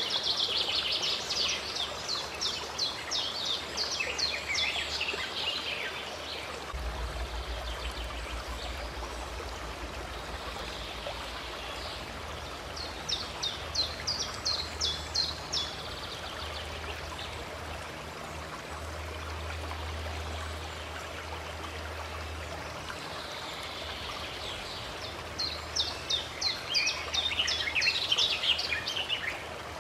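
Running stream flowing steadily, with a songbird singing three bursts of rapid, high notes that fall in pitch: at the start, about halfway through, and near the end.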